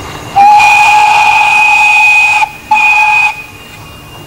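Miniature railway locomotive's whistle: one long blast and then a short one, each a single steady high note with a breathy hiss.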